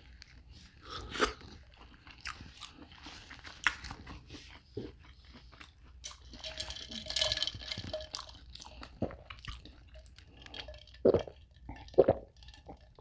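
Close-miked chewing of buttery lobster meat: wet, clicky mouth sounds with some crunching, then a couple of louder gulps near the end as water is drunk from a cup.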